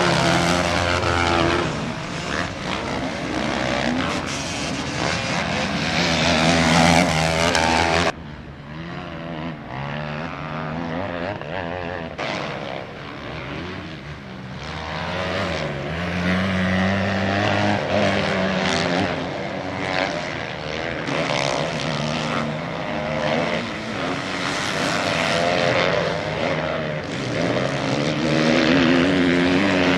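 Motocross motorcycle engines racing, the revs climbing and falling again and again as the bikes accelerate, shift and pass. The sound drops suddenly about eight seconds in, then builds back up.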